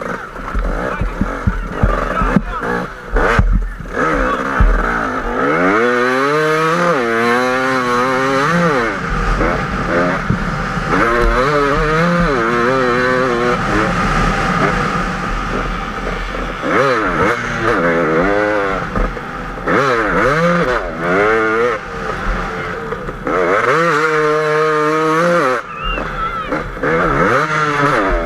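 KTM 250 EXC two-stroke enduro engine revving hard, its pitch repeatedly climbing and then dropping with throttle and gear changes as the bike accelerates across sand, with wind buffeting the helmet camera. In the first few seconds, knocks and clatter as the bike scrabbles over rocks.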